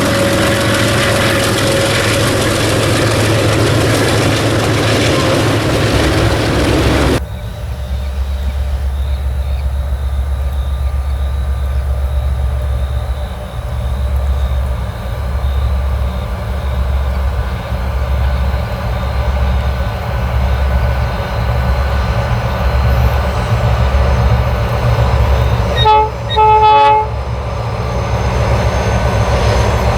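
Train on the move: a loud rushing of wheels and rail noise cuts off abruptly about seven seconds in, giving way to a low, pulsing locomotive engine rumble. Near the end the train horn sounds twice, a short toot then a slightly longer blast.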